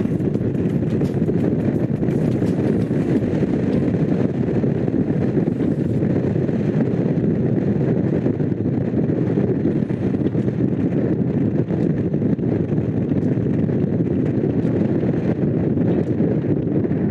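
Honda CX500's liquid-cooled V-twin engine running at a steady cruise, mixed with wind rushing over the microphone.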